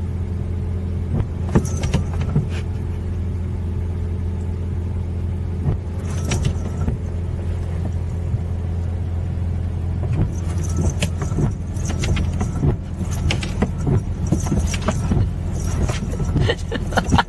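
A steady low motor hum with scattered clicks and rattles over it.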